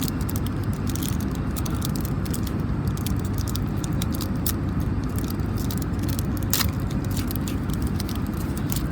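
Steady low drone of an airliner cabin in flight, with irregular crinkling and crackling of a foil Pokémon card booster pack being torn open and handled; one sharper crackle about six and a half seconds in.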